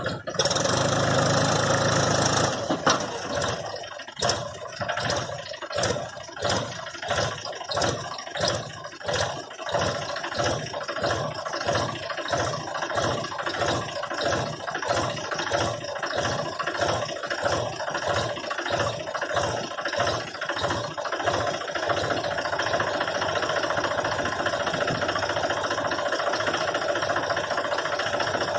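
Mahindra tractor's diesel engine running: a loud burst in the first couple of seconds, then an even pulsing rise and fall about twice a second, settling to a steadier run for the last several seconds.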